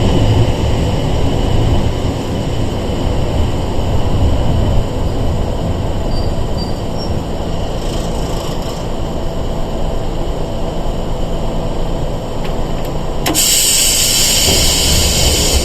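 Inside the car of a Sangi Railway 101 series electric train (former Seibu 401 series): the train's low rumble, easing off slightly. About 13 seconds in, a sudden loud hiss of air begins and carries on.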